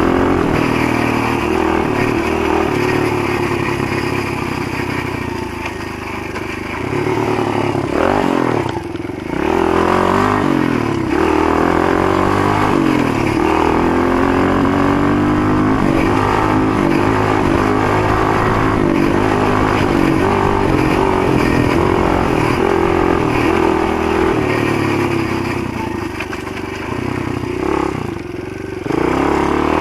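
Motoland GF125 pit bike's single-cylinder four-stroke engine running under way, its revs rising and falling with the throttle. The throttle eases off and the revs drop about eight seconds in and again near the end before it pulls back up.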